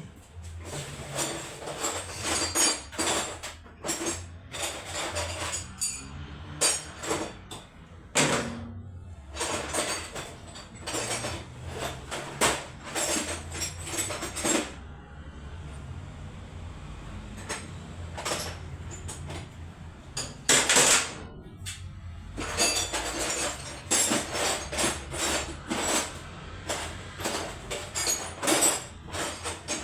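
Metal tools and parts clinking and clattering in repeated bursts, with a quieter stretch about halfway through and a loud clatter just after.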